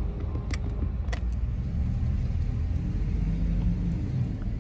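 Car engine idling, a steady low rumble heard from inside the cabin, with a few sharp clicks in the first second or so.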